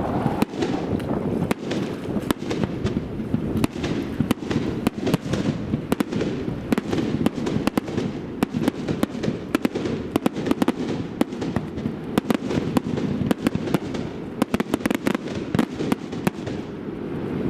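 Fireworks going off: a dense, irregular string of sharp crackles and pops, many to the second, over a steady low rumbling haze.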